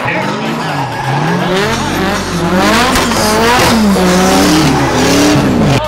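Drift cars' engines being revved hard and eased off over and over as they slide sideways through the course, the pitch swinging up and down many times and loudest in the second half.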